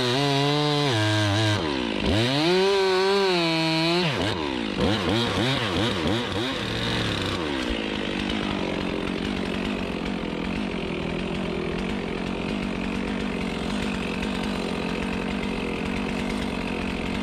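Chainsaw engine running under load while cutting wood, its pitch rising and falling. About four seconds in the revs drop away in a few dips, and from about seven seconds a steady rushing noise continues on its own.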